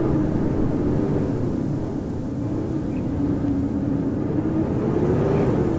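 Howling blizzard wind: a steady rushing with a low moaning tone that slowly wavers up and down.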